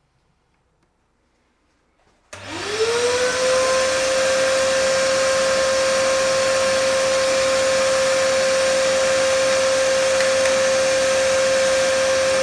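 An electric motor-driven machine switched on about two seconds in, spinning up quickly to a steady high whine over a loud, even hiss.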